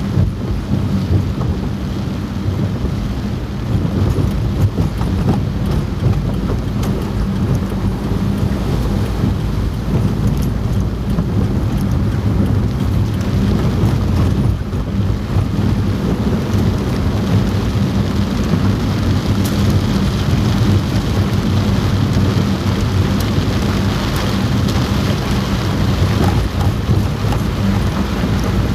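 Heavy rain falling steadily on a car's roof and glass, heard from inside the cabin, with scattered small drop ticks over a deep, steady rumble and a faint hum from the car as it drives.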